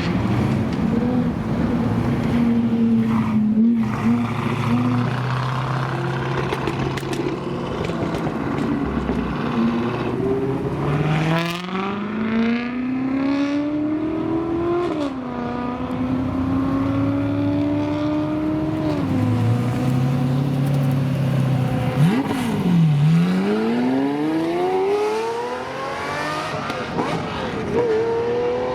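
Car engine idling, then accelerating, its note climbing and dropping back at two gear changes midway. Near the end the note dips and climbs again as it revs or passes by.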